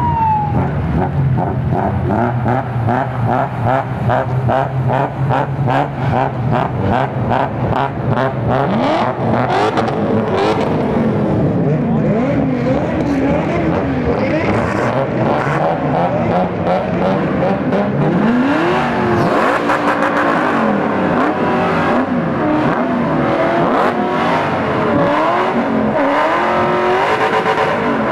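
Engines of modified BMW 3 Series drift cars running loud and lumpy at low speed, then revved hard again and again, the pitch swinging up and down.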